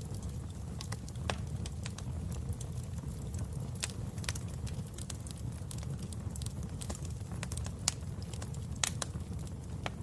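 Wood fire burning in a fireplace, with a steady low rumble and irregular sharp crackles and pops, two of them louder near the end.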